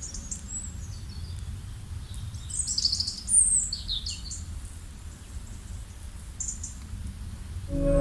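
Songbirds chirping: scattered short high chirps and falling whistles, the loudest about three and a half seconds in, over a low steady rumble. Near the end, ambient music with long ringing singing-bowl-like tones comes in.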